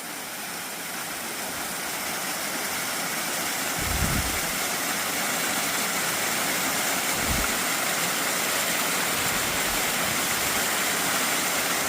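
Waterfall pouring steadily, as a dense even rush, growing a little louder over the first few seconds. Two brief low thumps come about four and seven seconds in.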